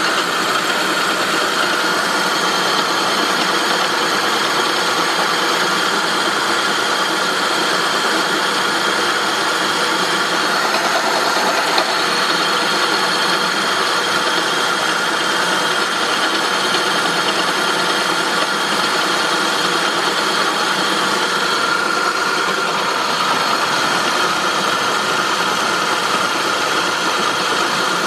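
2003 Saab 9-5's engine running steadily with a metallic grinding noise coming from the engine.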